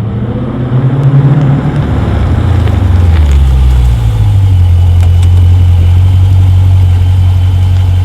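Dodge Challenger Scat Pack's 392 HEMI V8 running with its mid-muffler deleted, a loud, deep exhaust drone. The pitch climbs briefly about a second in and drops back to a steady low note.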